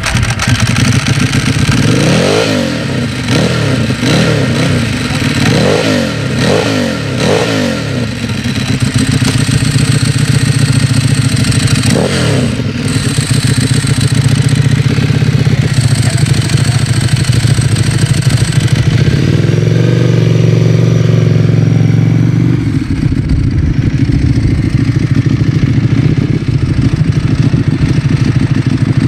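Ducati Streetfighter's V-twin engine revved up and down about five times in quick succession, then running loud at a steadier speed, its pitch shifting a few times along the way.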